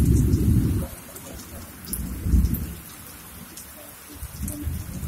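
Heavy rain falling on open ground, with scattered drops ticking sharply, broken three times by loud bursts of low rumble.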